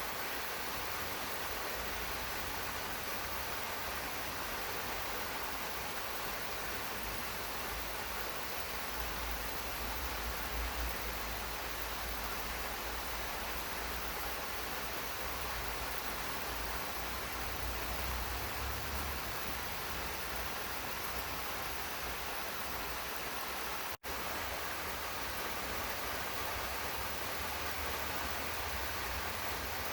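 Steady rain falling, an even hiss without separate drops standing out. It cuts out for an instant about two-thirds of the way through, then carries on unchanged.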